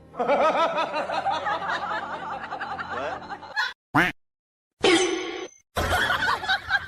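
People laughing in quick, wobbling bursts, broken by sudden cuts between short clips: a brief sound, a moment of silence, then a short burst of noise before the laughter-like voices return.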